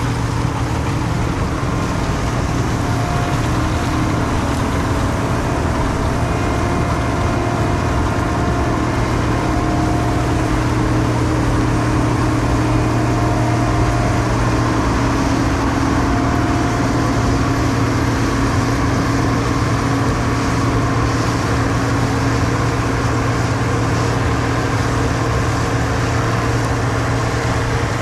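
Heavy diesel harvest machinery running steadily: a constant low engine hum with mechanical noise, holding one speed without revving or stopping.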